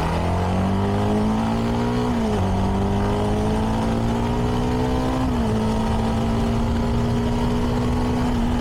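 CFMoto 300NK's single-cylinder engine on its stock exhaust accelerating through the gears: the revs climb, drop at an upshift about two seconds in, climb again and drop at a second upshift about five seconds in, then hold steady at cruise. Wind rush on the helmet microphone runs underneath.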